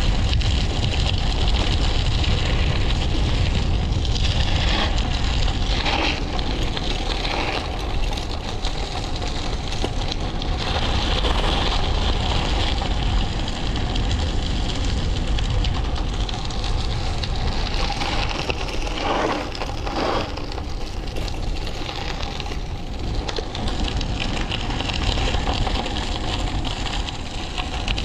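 Wind rumbling on the microphone, with the crunch and rattle of a bike's tyres over a rough, loose trail on a downhill run. A few short scraping streaks stand out now and then.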